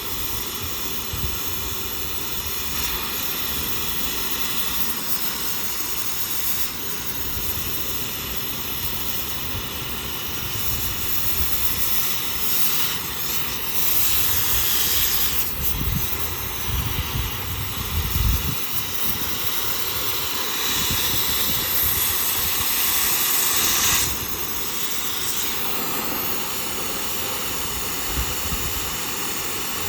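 Oxy-fuel gas cutting torch hissing steadily while cutting through a steel excavator track chain link. The hiss grows louder partway through and drops back abruptly a few seconds before the end.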